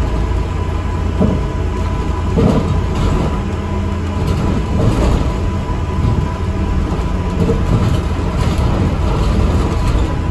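ADL Enviro400 MMC double-decker bus in motion, heard from inside: a steady deep engine and road rumble with a thin, steady high whine over it.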